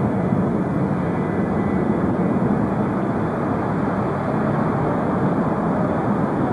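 Jet airliner engines, a steady even roar that holds at one level with no rise or fall.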